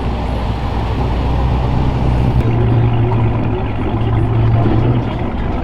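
Car engines idling, a steady low rumble whose pitch steps slightly higher about halfway through.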